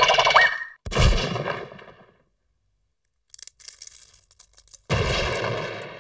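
Cartoon sound effects: a short rising whistle, then a sudden loud bang about a second in that fades out, a pause with a few faint clicks, and a second loud crash near the end.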